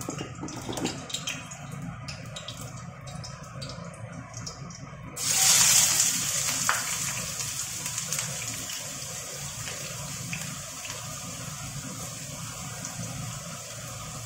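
Chopped onion and garlic tipped into hot oil in a frying pan: a sudden loud sizzle about five seconds in that settles into a steady frying sizzle. Before it, a quieter steady hiss with a few light clicks.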